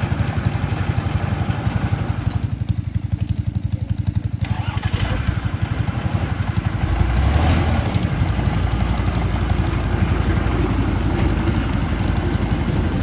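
Engine of a rice-harvesting farm machine running steadily with a fast, even throb, growing louder and deeper for a moment about seven seconds in.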